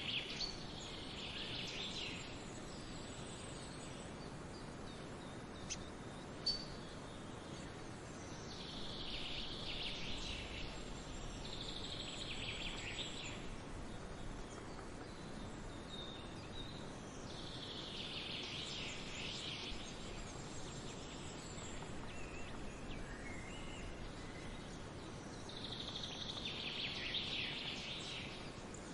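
Birds chirping in bunched flurries every few seconds over a steady outdoor background hiss, with two short sharp ticks about six seconds in.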